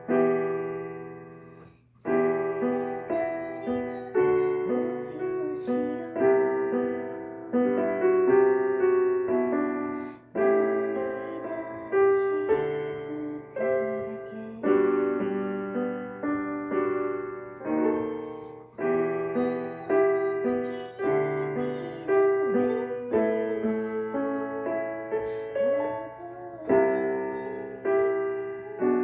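Solo piano playing a slow, gentle piece, each note struck and left to ring and fade. The music dips almost to silence about two seconds in, then resumes.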